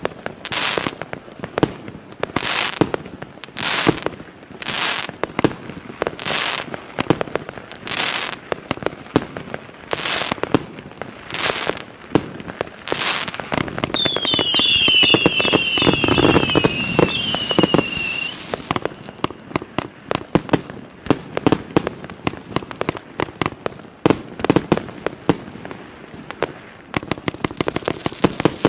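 Firework cake of 1–1.2 inch shots firing in sequence, with sharp launches about one a second. Near the middle comes a cluster of short falling whistles over dense crackling, followed by rapid crackling pops.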